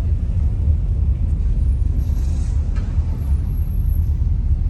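Steady low rumble of a car as it is driven slowly, heard from inside the cabin.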